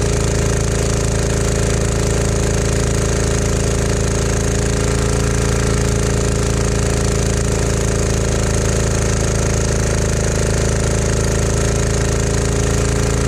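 Small single-cylinder diesel engine of a 196cc 168F generator running steadily under load, fuelled on vegetable oil.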